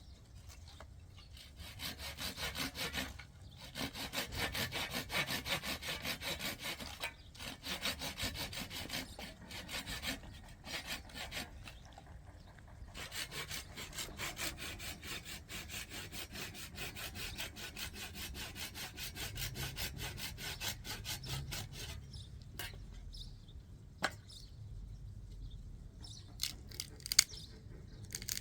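Rapid, rhythmic rasping strokes in runs of several seconds, broken by short pauses and dying away about 22 seconds in. A few sharp clicks come near the end.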